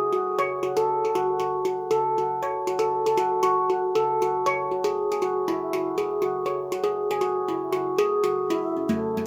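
Luna Eira tuned steel drum played by hand in a steady run of notes, about four strikes a second, each note ringing on under the next. Lower notes come in near the end.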